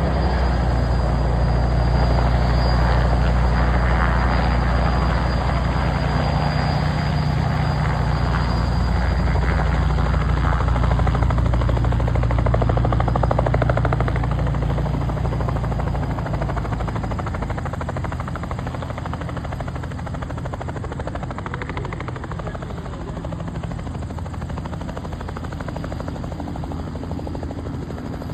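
Helicopter landing: the rotor chop and engine run steadily and loud, then grow gradually quieter over the second half.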